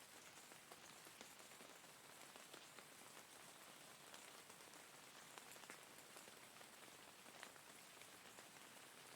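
Steady rain, an even hiss with many small drop ticks throughout.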